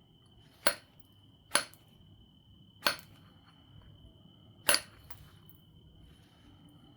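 Obsidian biface being knapped: four sharp, glassy clicks, about a second or so apart and the last one after a longer gap, as flakes are struck off the stone. A faint steady high-pitched whine sits underneath.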